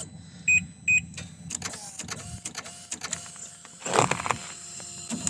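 Two short electronic beeps, then clicking and metal rattling as booster-pack jumper clamps are fitted to a snowmobile's starter relay and ground terminal. A louder clatter comes about four seconds in.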